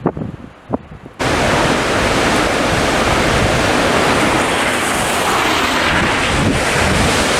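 A few light knocks, then about a second in, loud gusting blizzard wind starts abruptly, buffeting the microphone as a dense, steady rush.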